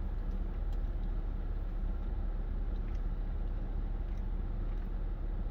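Steady low rumbling background noise with a few faint soft clicks.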